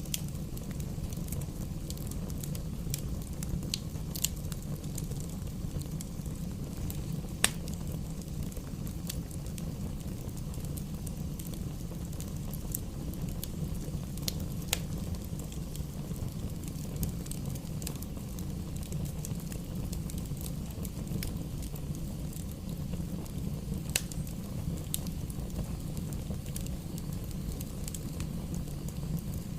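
Bonfire burning: a steady low rumble with scattered sharp crackles and pops from the burning wood. The loudest pops come about seven seconds in and again around twenty-four seconds.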